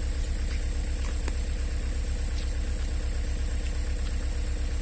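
Engine idling steadily with an even, rapid low throb and a faint steady whine above it, with a few faint ticks.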